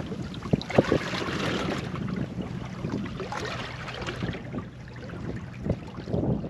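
Water washing against a small boat's hull, with a few sharp knocks about half a second in, about a second in and near the end.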